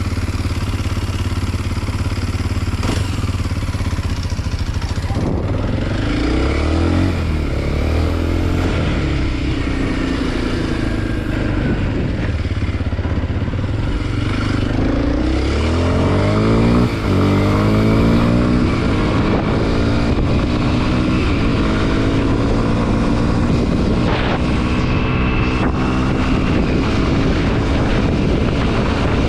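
Kawasaki KLX 230 SM's single-cylinder four-stroke engine running while riding, its pitch climbing and dropping several times as it accelerates and shifts, then holding a steadier, higher note from about 20 seconds in.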